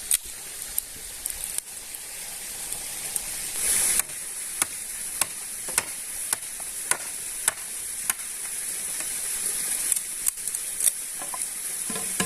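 Food sizzling as it fries in a pan, with a steady high hiss. A utensil stirring it clicks against the pan about once or twice a second.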